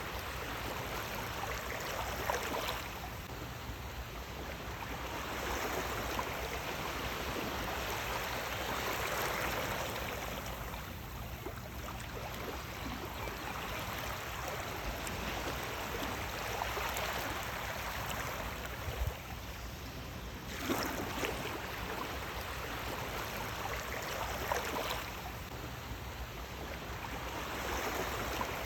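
Sea waves washing in and drawing back: a continuous rush of water that swells and subsides every several seconds.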